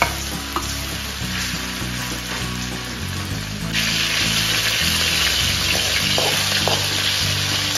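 Chicken pieces sizzling as they fry in hot oil in an aluminium kadai, stirred with a metal slotted spoon that gives a few light clicks against the pan. The sizzle gets louder about halfway through.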